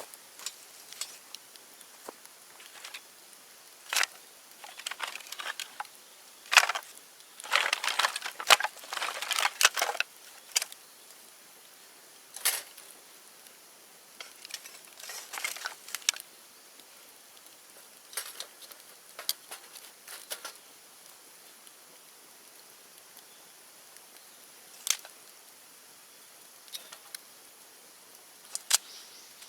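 Bonfire of cut bamboo crackling, with irregular sharp snaps and pops. The pops come thick and fast for a few seconds around a quarter of the way in, then thin out to occasional single cracks.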